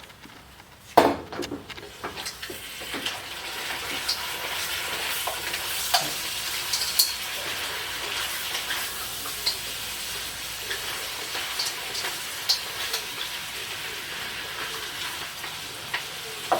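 Food sizzling in a hot pan on the stove. The sizzle starts after a loud clatter about a second in and keeps going steadily, with scattered taps and scrapes of a utensil stirring in the pan.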